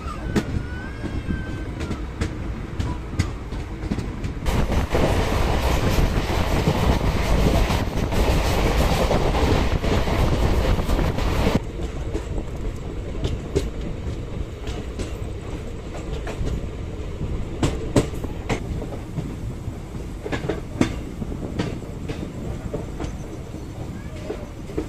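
Passenger train coach running at speed, heard from its open doorway: a steady rush of wind and wheel noise with clicks and clacks as the wheels cross rail joints. About four seconds in, the rush grows louder for roughly seven seconds, then drops away suddenly.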